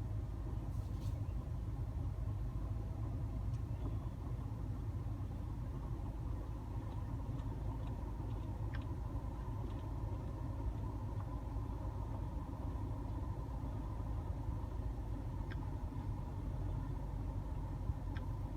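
2014 Nissan Super Sentra's air conditioning running with its normal sound, the abnormal rumbling noise gone: a steady low hum over the idling car, with a few faint ticks.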